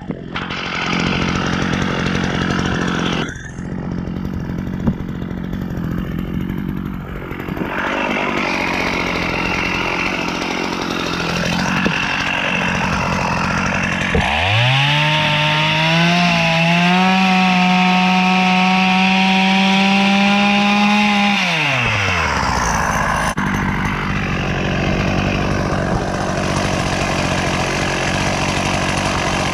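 Two-stroke chainsaw running, revved up about halfway through and held at high speed for several seconds while cutting boards, then dropping back to idle.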